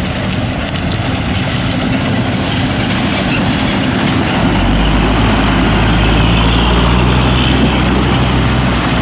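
Heavy diesel engine running steadily; about halfway through, a deep low rumble comes in and the sound grows slightly louder, as the engine works harder.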